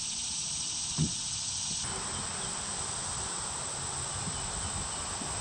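Steady high-pitched insect chorus buzzing outdoors, which spreads into a fuller hiss about two seconds in. A single short soft thump comes about a second in.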